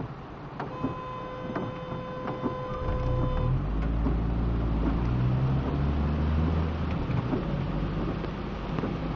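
A vehicle's engine rumbling as it goes by, loudest in the middle, over a steady hiss of rain. Before it a steady tone is held for about three seconds.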